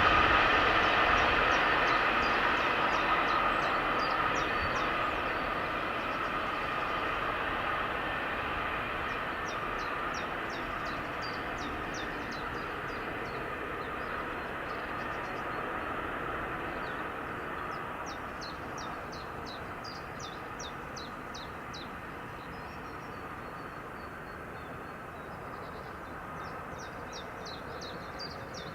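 A passing train rumbling away into the distance, fading steadily over the first several seconds to a low background. Over it, a small bird sings short runs of quick high notes, repeated every few seconds.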